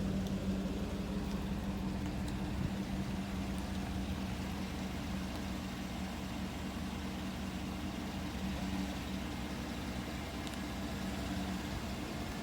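Steady low mechanical hum with a constant pitched drone, like a motor running evenly.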